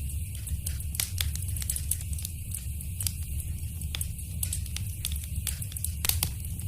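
Wood fire crackling in a fireplace: irregular sharp pops and snaps over a steady low rumble, with a louder cluster of pops about six seconds in.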